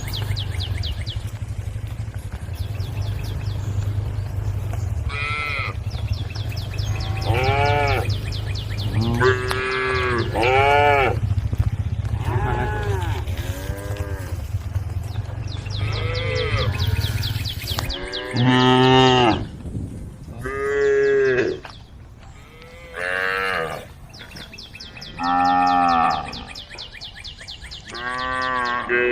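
Cows mooing again and again, about a dozen drawn-out calls from several animals, each rising and then falling in pitch, a second or two apart. A steady low rumble runs beneath the first eighteen seconds or so and then stops.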